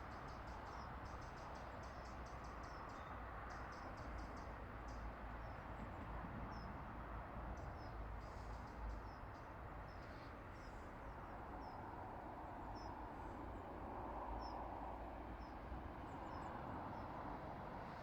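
Faint outdoor ambience: small birds giving short high chirps, with a rapid trill in the first few seconds, over a steady background hiss and low rumble.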